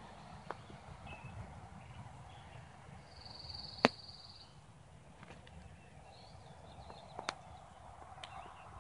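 Faint outdoor ambience with distant birds calling: a held high note about three seconds in and a few short chirps later on. A sharp click just under four seconds in is the loudest sound, with a few fainter ticks around it.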